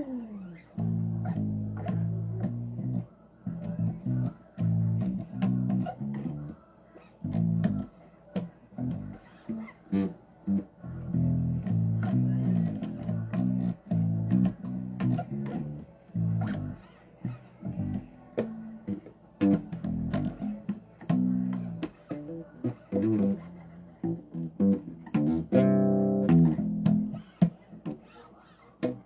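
Bass guitar played solo: a run of plucked low notes with sharp string clicks between them, and a note sliding up in pitch near the end.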